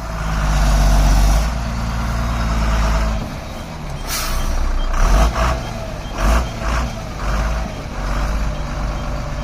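Truck engine running steadily under load, with several short hisses of air about four, five and six seconds in.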